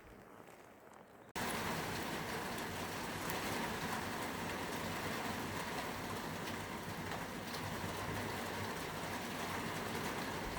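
Steady rain falling, an even hiss with a fine patter of drops, which comes in suddenly about a second and a half in after a quiet start.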